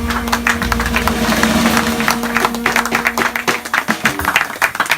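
A jazz band holds a final note over audience applause and cheering. The held note cuts off about three and a half seconds in, and the clapping goes on.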